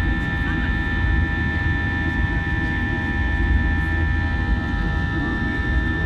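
Airbus A320-200 jet engines running steadily, heard inside the passenger cabin: a constant low rumble under a set of steady whining tones.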